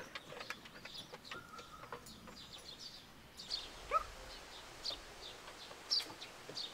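Faint bird chirps and calls: scattered short high chirps, a brief held note, and one rising call about four seconds in.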